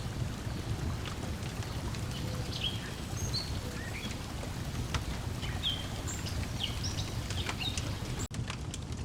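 Lakeside ambience: a steady low wash of water lapping, with scattered short bird chirps and the sharp crackle and pop of a wood fire. The sound cuts out for an instant near the end, then resumes.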